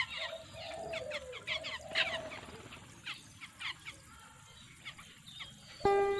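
Small birds chirping in quick downward-sliding notes, several overlapping, with a lower wavering call in the first couple of seconds; the chirping thins out after about four seconds, and music starts just before the end.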